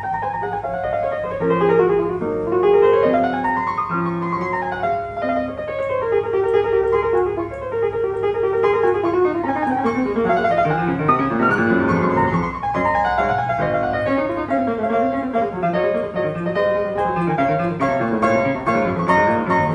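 1995 Petrof P194 Storm grand piano being played continuously in flowing runs and arpeggios that sweep up and down the middle and upper range.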